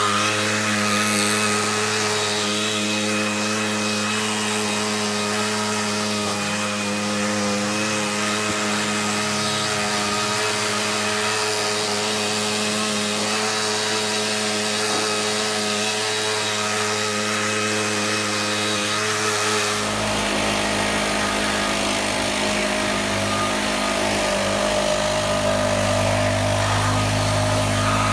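Stihl BR600 backpack leaf blower engine running steadily after new fuel pipes and a fuel cap have been fitted, its pitch and rumble shifting about two-thirds of the way through. It runs well, though the owner thinks the high-speed jet needs a little adjustment.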